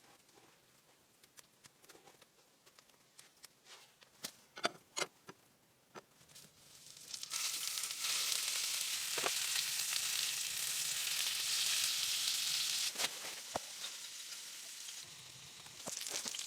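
A few light clicks and knocks, then about seven seconds in a steady sizzle of food frying in a hot pan begins, easing off near the end.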